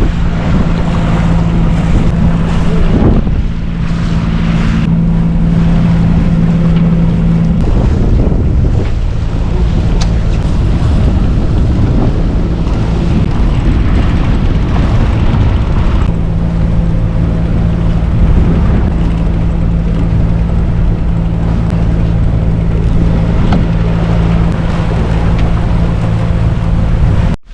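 A yacht under way with its engine droning steadily beneath a loud rush of wind and water. The engine drone sinks under the rush for several seconds midway, then comes back, and everything cuts off abruptly near the end.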